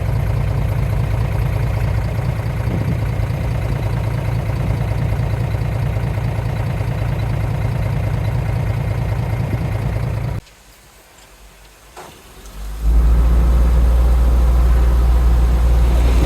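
Diesel engine of heavy earthmoving machinery running steadily. About ten seconds in it drops out abruptly to a much quieter stretch, and after two or three seconds comes back louder and deeper.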